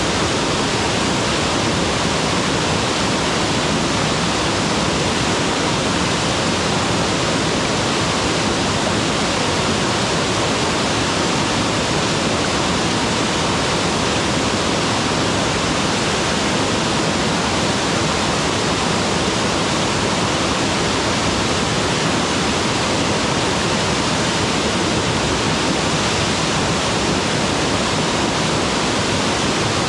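Mountain waterfall pouring steadily: a dense, even rush of falling water with no breaks or changes.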